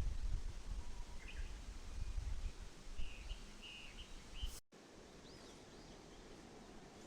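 Small birds chirping over a low rumble on the microphone. About four and a half seconds in, the sound cuts off abruptly. Afterwards the rumble is gone, and short rising bird calls carry on over a quiet outdoor background.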